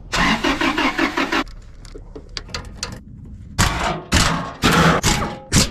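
Engine cranking over in an even pulsing rhythm without catching, the sign of a no-start. Several short, loud bursts of noise follow in the second half.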